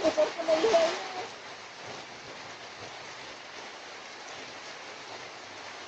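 Steady rain, an even hiss, with a person's voice briefly in the first second.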